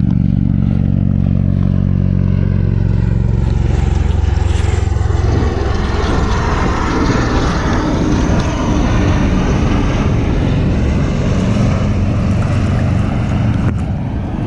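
Low-flying rotor aircraft, which the paddler takes for a V-22 Osprey tiltrotor, passing overhead. Its rotors give a loud, steady drone with a low buzzing hum; after about four seconds the hum fades into a broad rushing noise.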